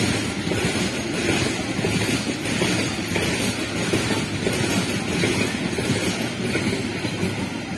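Freight train of hopper wagons rolling past at speed close by: a steady, loud rumble of wheels on the rails.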